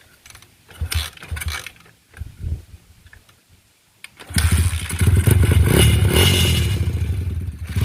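Dirt bike engine, freshly fitted with a new carburetor, being started: a few short knocks, then about four seconds in the engine catches and runs loudly.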